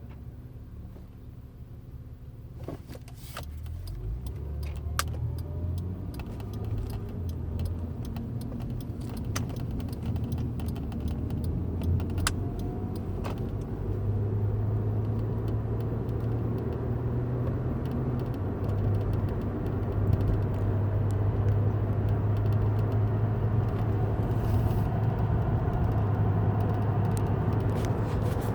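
Inside the cabin of a 2007 Acura TL Type S on the move: a steady low road and engine rumble that grows louder over the first dozen seconds, with a faint rising whine, the noise being recorded as a fault. Scattered light clicks and rattles come through now and then.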